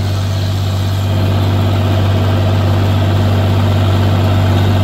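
Tractor engine running steadily under load, a deep even drone that grows slightly louder about a second in.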